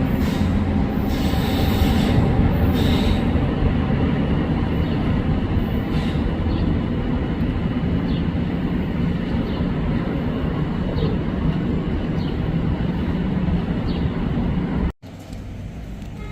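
A passenger train moving through a station, with a steady rumble of wheels and engine and squealing wheels during the first few seconds. The sound cuts off abruptly near the end, and a quieter low engine hum follows.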